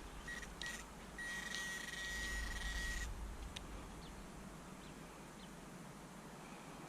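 Metal detector beeping at a small target: three short beeps, then a steady tone held for about two seconds over a scraping rustle. After that only faint background with a few light clicks.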